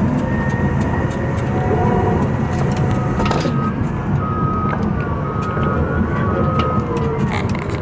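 Caterpillar bulldozer's diesel engine running steadily under load, with scattered sharp cracks. From about three and a half seconds in, a backup alarm beeps in short repeated tones.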